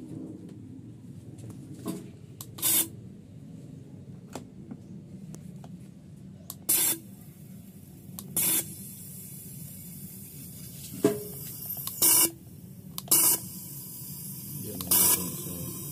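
Six short hissing bursts of pressurized spray, each about a third of a second long and a few seconds apart, over a low steady background hum, with light clicks between the bursts.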